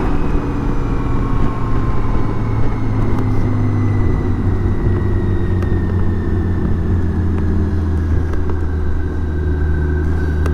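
BMW K1600 GTL's inline-six engine running steadily while the motorcycle slows for a built-up area, with a whine that slowly falls in pitch.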